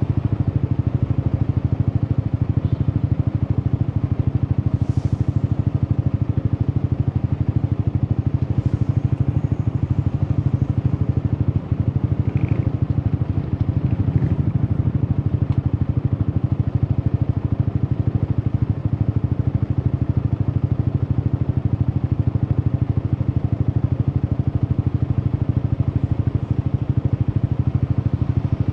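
Yamaha XSR 155's single-cylinder engine running steadily through an Akrapovic aftermarket exhaust, its low exhaust note holding an even pitch throughout.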